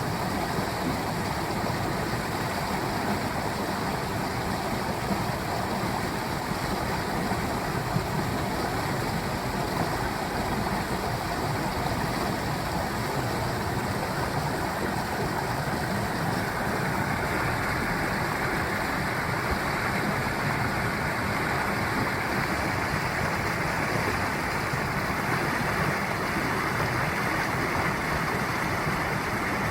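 Mountain valley stream flowing: a steady, continuous rush of running water.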